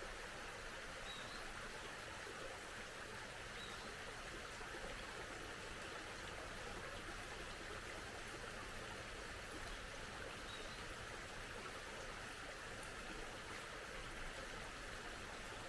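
A mountain stream flowing steadily, with a few faint, brief bird chirps.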